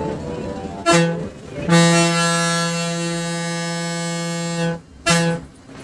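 Bus air horn sounded three times on one steady pitch: a short blast, a long blast held for about three seconds, then another short blast.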